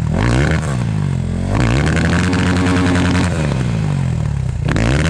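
Enduro motorcycle engine revved hard in bursts: a quick rev at the start, one held high for about a second and a half, and another near the end. The rider is dumping the clutch in jerks to drive the bogged bike out of the stream.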